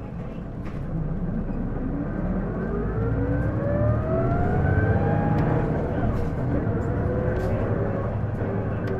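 Isuzu PJ-LV234L1 city bus heard from inside while it accelerates: a diesel engine rumble with a whine that rises in pitch for a few seconds, then drops and levels off past the middle. The whine comes with every acceleration and sounds like an automatic transmission; the owner suspects a transmission fault.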